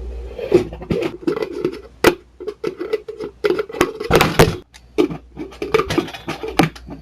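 A fast, irregular run of clicks and knocks, with the loudest clatter about four seconds in.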